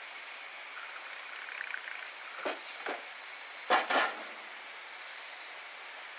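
Wood campfire crackling: a few sharp pops, the loudest two close together just before the middle, over a steady high insect chorus.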